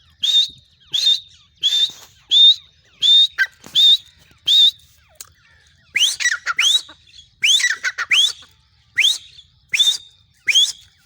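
Female grey francolin calling: a series of shrill whistled notes, about one to two a second, each rising quickly and peaking high. From about six seconds in, the notes sweep up from lower down and come closer together, some in pairs.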